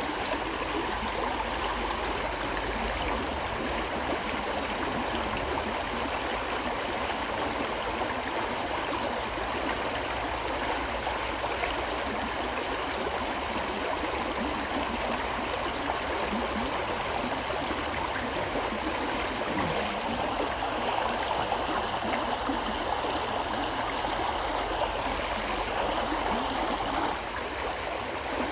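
Forest river flowing steadily: a continuous, even rush of water that eases slightly shortly before the end.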